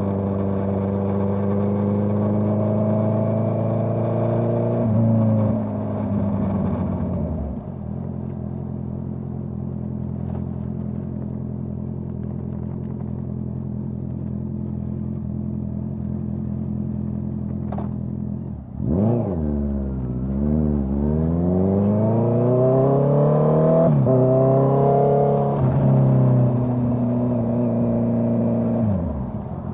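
Honda CBR650R's inline-four engine through a Dominator GP full-system exhaust, under way on the road. It pulls, eases off about five seconds in, then holds a steady cruise. Past the middle the revs dip and then climb in rising sweeps broken by gear changes, before backing off near the end.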